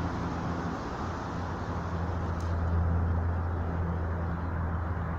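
A vehicle engine idling, a steady low hum with road or traffic noise behind it.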